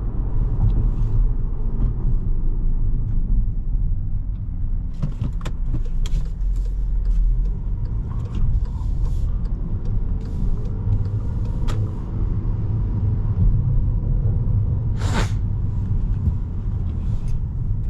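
Steady low rumble of engine and road noise inside the cabin of a 2017 Volkswagen Jetta SE while driving, with scattered short clicks and knocks, the loudest one about 15 seconds in.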